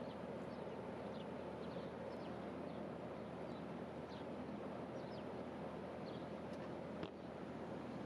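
Steady outdoor background noise with small birds chirping now and then. One sharp knock about seven seconds in, as the Subpod compost bin's plastic lid closes.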